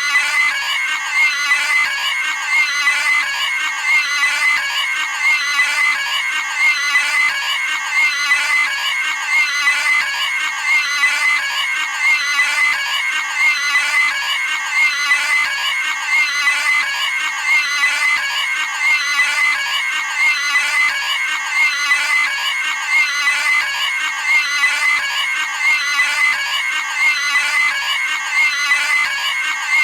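A cartoon pig's high-pitched squealing scream, the same short sound effect looped over and over at an even pace, about once every second and a half.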